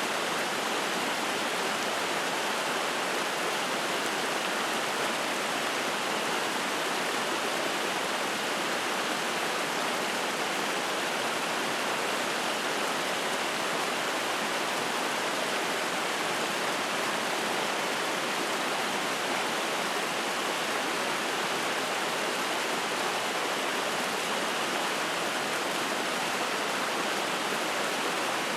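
A mountain stream rushing and splashing over rocks: a steady, unbroken sound of running water.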